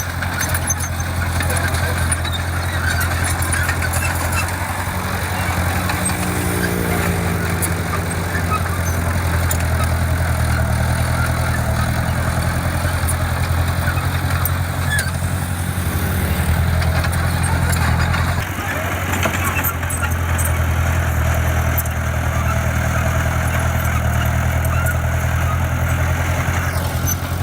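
Diesel engine of heavy earthmoving machinery running steadily at a constant pitch, with a brief rising note about a quarter of the way in and a change in its higher sound about two-thirds through.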